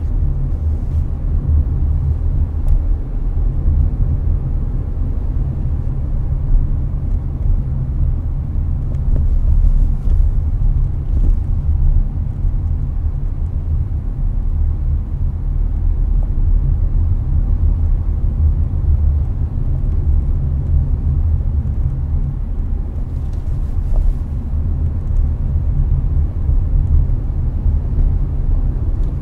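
Hyundai Avante (Elantra) at highway speed, heard inside the cabin: a steady low road and tyre rumble with the air conditioner's fan running.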